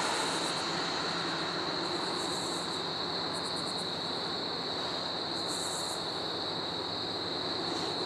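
Steady rumble of an approaching freight train, not yet close, under a steady high insect drone with short bursts of rapid chirping from the trees.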